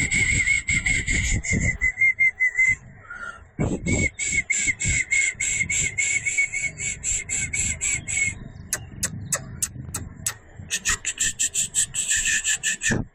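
An animal's rapid, repeated chirping calls in long trains of about four a second, broken by a few sharp clicks partway through.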